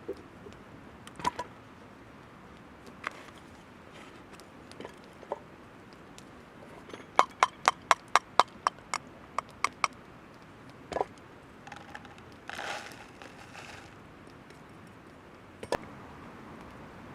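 Sharp knocks or taps: a few single ones, then a quick run of about a dozen at roughly four a second from about seven seconds in, and a brief scraping or rustling patch a little later.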